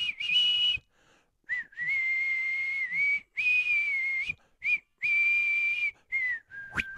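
A person whistling a slow tune in long held notes with small slides in pitch between them, breath audible around the tone. A short click comes near the end.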